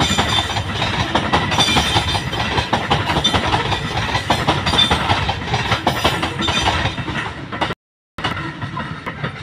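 Babaranjang coal train's wagons rolling past, their wheels clattering over the rail joints in quick, irregular clicks. The sound cuts out completely for a moment near the end.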